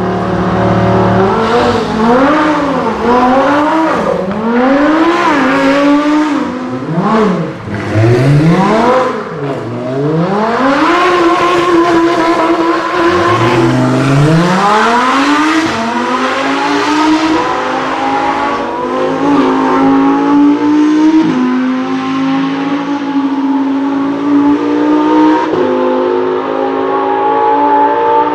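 Lamborghini Huracán's naturally aspirated V10 engine: a brief idle, then a string of sharp revs rising and falling. The pitch is held high for a couple of seconds, then climbs in a long pull and runs steady and high with a few small step changes in pitch.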